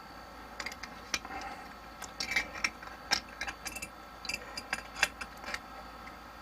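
A wrench tightening a plumbing fitting, with irregular sharp metal clicks and clinks.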